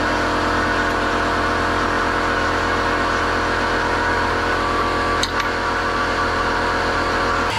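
A motor running steadily with a constant hum, with a brief click about five seconds in; it changes abruptly near the end.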